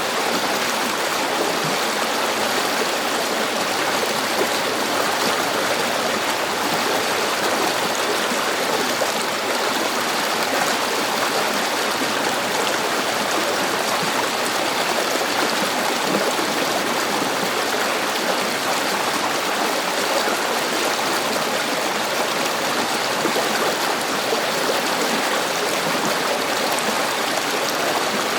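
River water flowing over rocks, a steady, unbroken rushing with fine splashing and gurgling.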